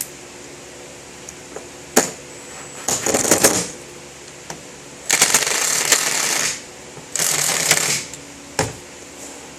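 Small hardware clattering as it is handled, then two short runs of a power drill driving screws into wood to fasten the brace, the first about a second and a half long, the second under a second.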